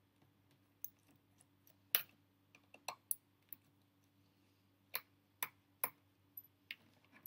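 Scattered small clicks and taps, about ten over several seconds, from hands working at a Lenovo Y410 laptop's memory compartment, with a faint steady hum underneath.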